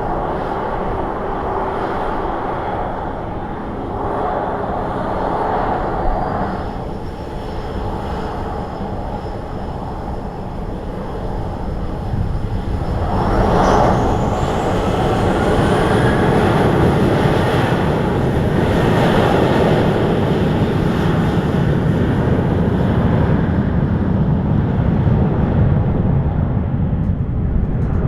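Jet airliner engines, a steady rumble that grows louder about halfway through, with a thin high whine that rises in pitch.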